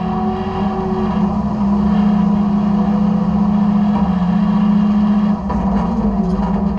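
Side-loader garbage truck running steadily, heard from inside its hopper: a loud, even mechanical hum, with a higher tone that stops about a second in and a few light knocks near the end.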